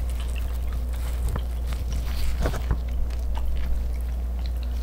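Eating sounds from chewing food: a few scattered soft clicks and mouth noises, over a steady low hum.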